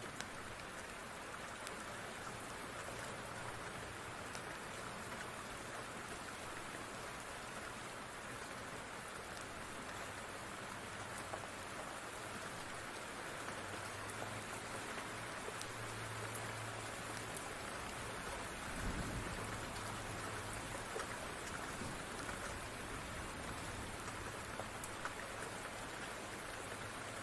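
Steady rain falling, with scattered small crackles of a wood fire over it and a brief low rumble about two-thirds of the way through.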